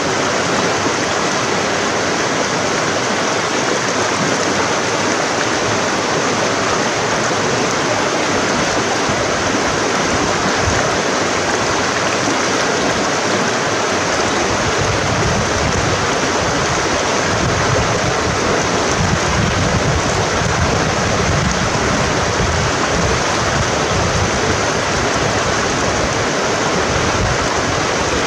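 Forest stream water running steadily over rocks, a constant rushing wash; a deeper low rumble joins about halfway through.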